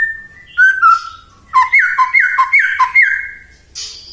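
White-rumped shama (murai batu) singing. A clear held whistle and a couple of lower falling notes lead into a run of five quick down-slurred whistles, about two a second, and the phrase ends in a short harsh rasp near the end.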